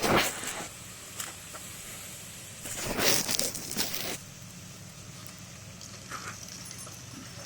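Knife scraped down a fire striker to throw sparks onto char cloth: a short scrape right at the start, a light click, then a longer rasping run of strikes about three seconds in, with faint clicks after.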